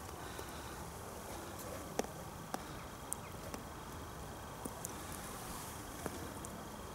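Quiet outdoor background noise, a steady faint hiss, with a few small, sharp clicks scattered through it.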